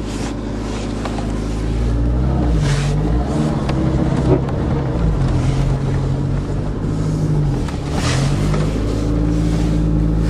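Car engine running and being revved, its pitch rising and falling several times before settling back.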